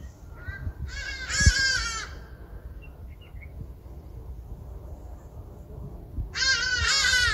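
A bird calling twice: a burst of loud, wavering cries lasting about a second, about a second in, and another near the end.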